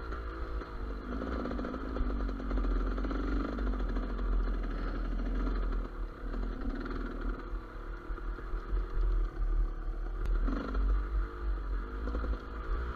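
GasGas EC200 two-stroke enduro motorcycle engine running under a varying throttle, its pitch rising and falling as it rides over forest terrain, with a heavy wind rumble on the microphone.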